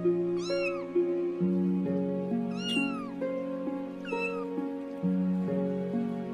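Kitten meowing three times, short high-pitched calls that rise and fall, over background music.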